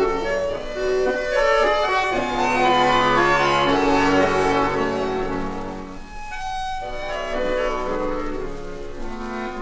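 Instrumental break in a Russian song, with bowed strings leading the orchestral accompaniment and no singing, played from a vinyl record. The music thins briefly about six seconds in, then carries on.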